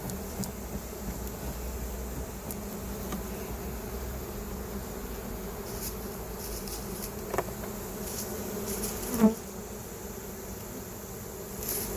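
Honey bees buzzing steadily in large numbers around an opened hive, with a few short knocks, the loudest about three-quarters of the way through.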